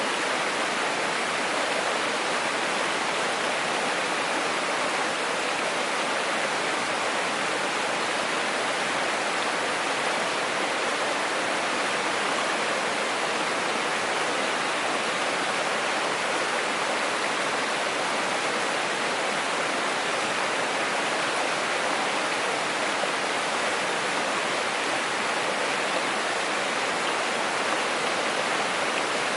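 Mountain stream flowing: a steady, even rush of water with no breaks.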